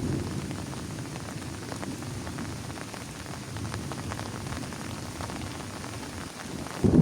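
Heavy rain falling on a plastic tarp, a steady hiss dotted with the ticks of single drops. Just before the end a loud low rumble of thunder sets in.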